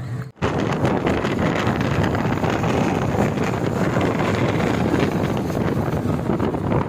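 Steady rush of wind on the microphone over the running engine of a boat under way, starting abruptly after a brief dropout.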